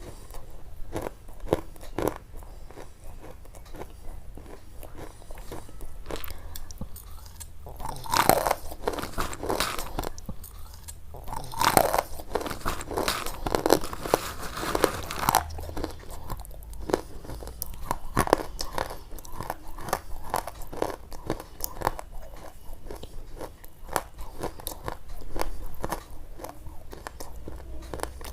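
Close-miked crunching and sharp clicks, with denser crunching about eight seconds in and again from about twelve to fifteen seconds.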